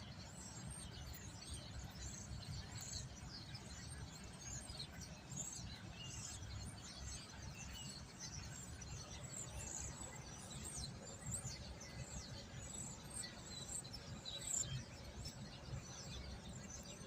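Many small birds chirping and tweeting at once, a dense chorus of short, high chirps overlapping throughout, over a steady low rumble.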